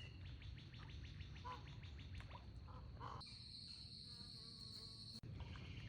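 Faint insect calling: a rapid run of fine ticks, then a steady high-pitched buzz from about three seconds in that cuts off abruptly about two seconds later, with a few faint bird calls.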